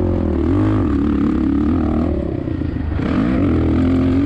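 2007 Suzuki RM-Z450 single-cylinder four-stroke motocross engine revving up and down several times as the throttle is worked, with wind noise on the microphone.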